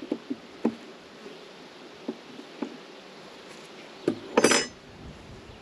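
Honeybees buzzing around an open hive, with light knocks and taps from hive parts being handled. A louder clatter comes about four seconds in.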